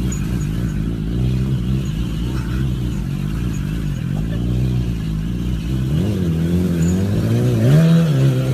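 An engine running and being revved, its pitch wavering up and down, with two sharper revs about six and eight seconds in.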